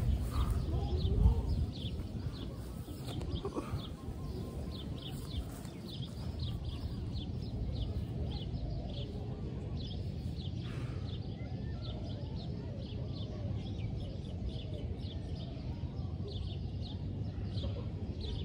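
Birds chirping, short high chirps repeating several times a second, over a low steady rumble.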